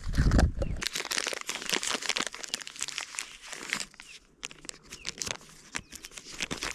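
Close, irregular crinkling and crackling of something being handled near the microphone, dense for the first few seconds and sparser later, with a low thump of handling at the very start.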